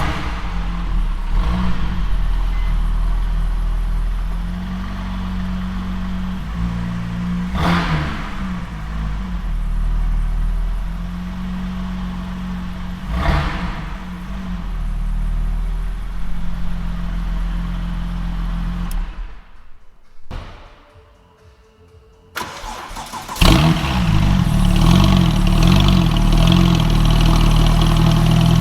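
Porsche 996 Turbo's twin-turbocharged 3.6-litre flat-six running and being revved, with a brief drop to quiet about three quarters of the way through before it comes back louder.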